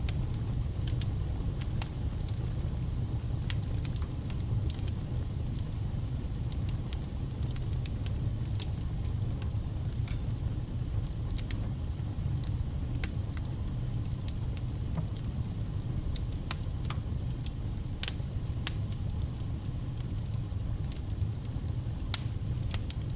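Wood fire burning, with a steady low rumble of flames and frequent irregular crackles and pops from the burning logs.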